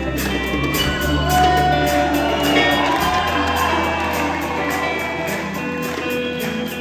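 A live rock band playing the instrumental opening of a song, with some cheering and whooping from the audience in the hall.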